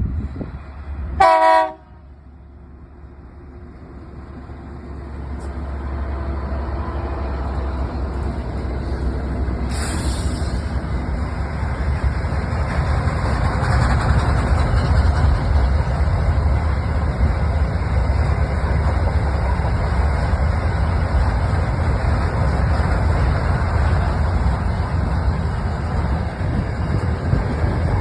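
SCT Logistics freight train led by SCT and CSR class diesel locomotives: the horn sounds one short blast about a second in, then the locomotives and wagons approach and pass with a low rumble that builds over about ten seconds and holds steady. A brief hiss about ten seconds in.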